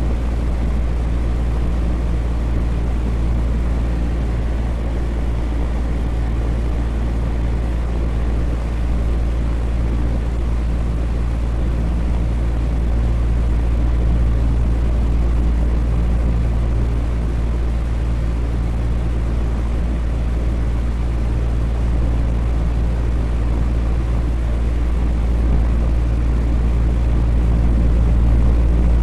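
Electric fan running steadily: an even rush of air over a deep low hum, with a few faint steady tones in the low range.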